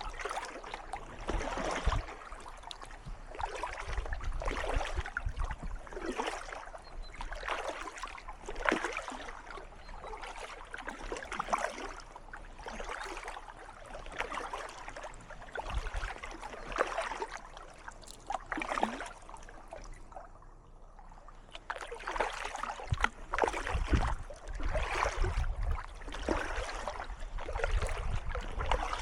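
Kayak paddle strokes splashing and dripping in calm canal water, a fresh stroke about every second and a half. The strokes pause briefly about two-thirds of the way through, then resume.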